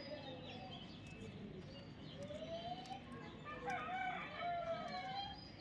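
Bird calls: a rising call about two seconds in, then a louder run of gliding calls from about three and a half to five seconds in, with faint chirping from other birds throughout.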